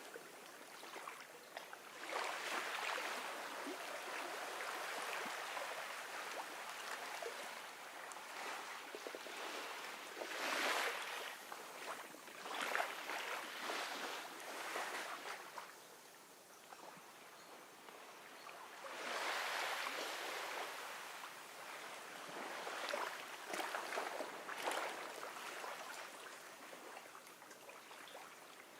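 Gentle ocean waves washing onto a beach, a steady hiss of surf that swells and falls back in irregular surges every few seconds.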